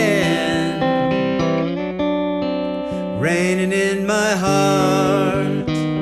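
Cigar box guitar playing a picked instrumental passage over held low notes, with a note that glides up in pitch about three seconds in.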